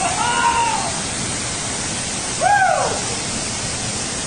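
Waterfall rushing as a steady roar of falling water. Two short calls rise and fall in pitch over it: one at the start and a louder one about two and a half seconds in.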